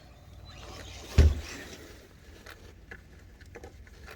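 RC short-course truck driving on the track, a rushing noise swelling, then one hard thump about a second in as the truck hits something, followed by light clicks of the truck over the ground.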